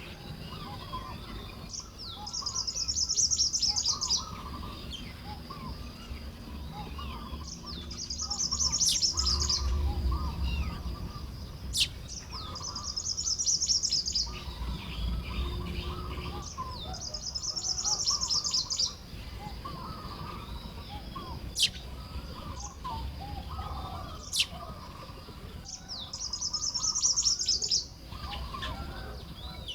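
Baya weavers at their nesting colony: five times a loud, high, rattling buzz of song, a few seconds apart, over steady lower chattering chirps from the flock. Three or four sharp clicks stand out between the songs.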